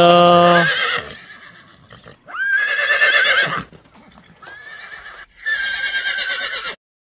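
Horse whinnying repeatedly: several separate shrill, wavering calls about a second apart, the last one cut off abruptly.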